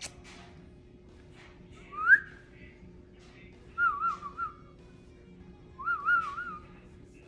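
Three short whistles: a single rising whistle about two seconds in, then two wavering, warbling whistles a couple of seconds apart.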